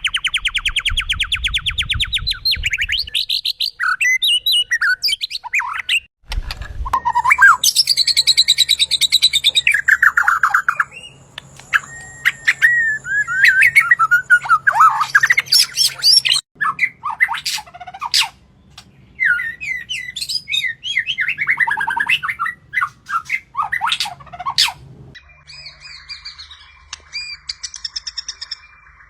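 Birds singing: a fast trill at the start, then a run of varied whistled phrases and chirps. The background changes abruptly about 6, 16 and 25 seconds in.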